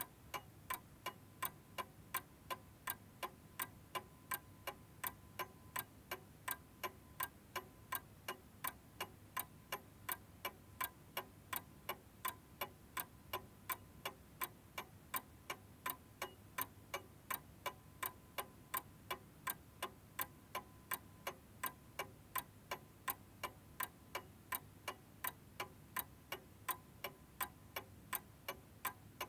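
Chiming clock's mechanical movement ticking steadily, about two ticks a second.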